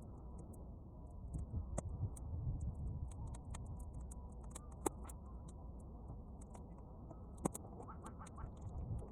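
Bonfire of half-dry weeds crackling, played back at triple speed: a steady run of small sharp pops, the loudest about 2, 5 and 7.5 seconds in, over a low rumble.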